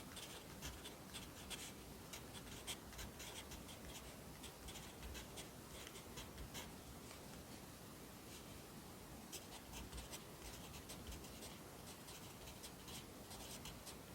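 Pencil writing Korean characters on paper: faint, short scratchy strokes in quick runs, with a pause of about two seconds midway.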